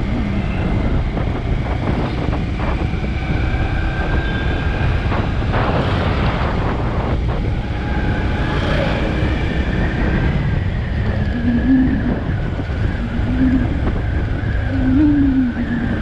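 Road traffic on a highway heard from a moving vehicle: a loud, steady low rumble of engines and tyres. A thin high tone holds through the second half.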